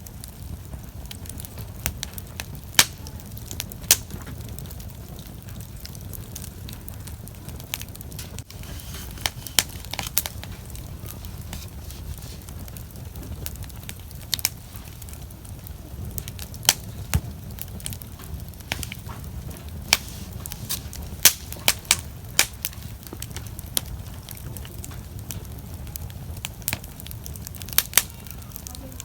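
Wood fire burning, with irregular sharp crackles and pops, one every second or two, over a steady low rumble.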